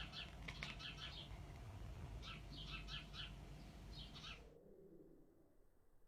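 A person imitating a bird, making quick clusters of short high chirps over a low background rumble; the chirping stops abruptly about four and a half seconds in.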